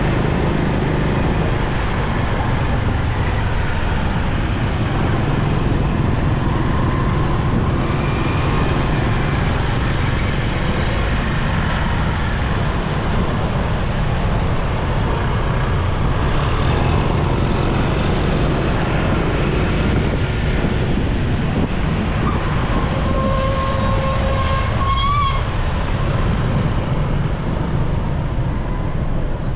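Motorcycle riding in traffic: steady engine and wind rumble. A vehicle horn sounds for about two seconds near the end.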